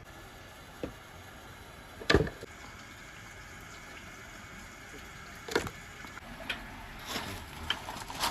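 Marbles knocking and clattering through a PVC pipe and rain-gutter marble run: scattered sharp clacks, the loudest about two seconds in, then several more close together in the last three seconds.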